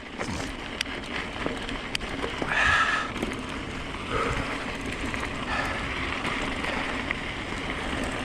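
Steady wind noise on the microphone and the rolling noise of e-mountain-bike tyres on a trail, with scattered clicks and a brief higher tone about two and a half seconds in.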